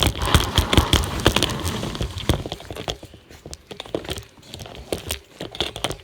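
Rapid knocks and rattles of the phone being jostled or handled, thick for the first two to three seconds, then sparser and quieter.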